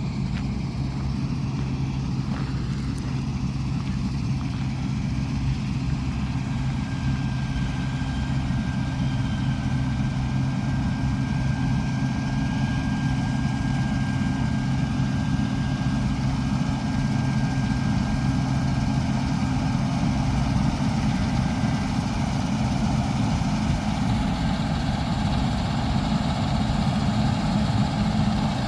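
Large diesel harvest machinery running steadily, slowly growing louder, with a thin high whine for a while in the middle.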